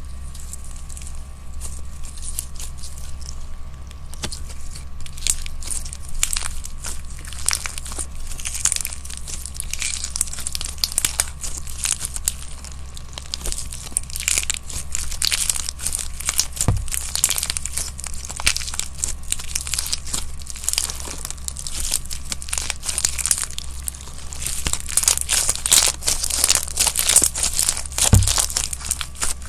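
Slime being worked by hand, with a dense run of fine crackling and crunching that thickens near the end, and two soft low knocks about halfway and near the end.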